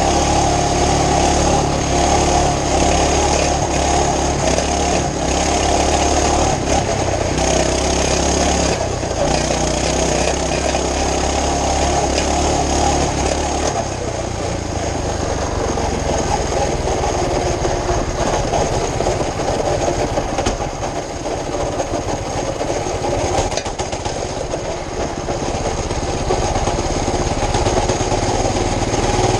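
Small pull-start mini-bike engine running continuously, its speed changing about halfway through and running rougher after. The owner takes its running to mean the carburetor jet is too small and needs drilling open a little.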